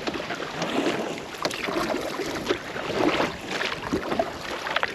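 Canoe paddle dipping and pulling through the water, with irregular splashing, dripping and gurgling around the blade and hull.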